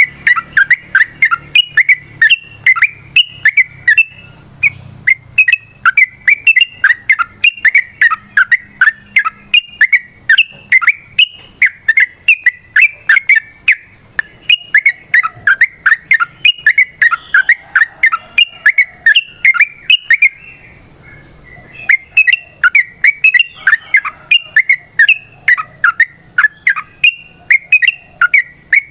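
Yellow-vented bulbul (trucukan) singing a long, rapid run of short chattering notes, several a second, with a brief pause about twenty seconds in.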